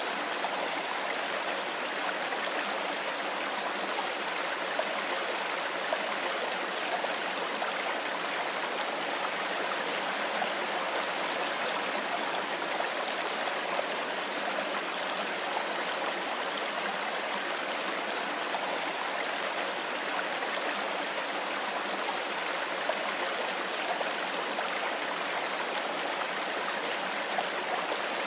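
Mountain river running over stones, a steady rushing and babbling of water that does not change.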